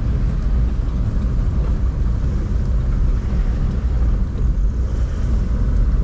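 Isuzu D-Max pickup truck driving along the road: a steady low rumble of engine and road noise, with no distinct events.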